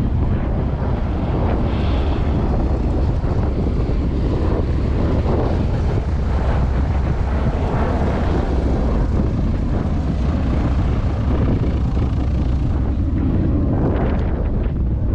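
Aircraft engines of a Heritage Flight formation running overhead as it breaks away, a steady low rumble, with wind buffeting the microphone.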